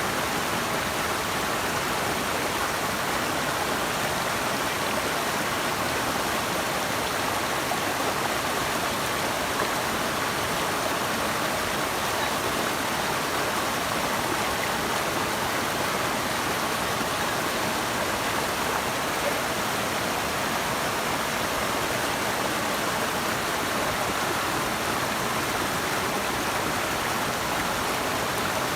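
Flowing water rushing steadily: an even, unbroken rush that does not change.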